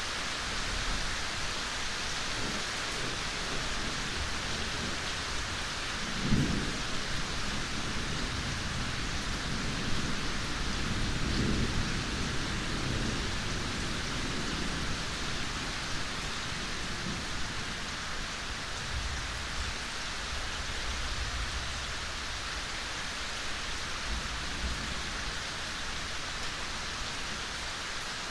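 Steady rain falling in a forest, a continuous soft hiss. Low rumbles of distant thunder roll in about six seconds in, again through the middle, and more faintly later on.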